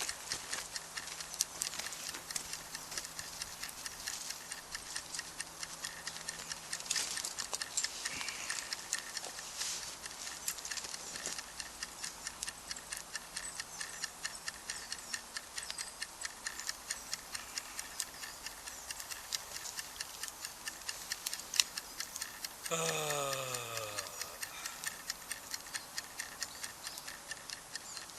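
Wood bonfire crackling: a steady run of small sharp pops and ticks. About three-quarters of the way through, a brief tone slides downward.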